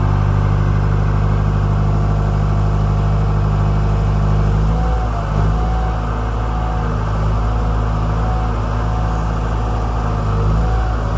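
Diesel engine of a Gradall XL3200 wheeled excavator running steadily. The engine note changes about halfway through, and a faint wavering whine comes and goes after that.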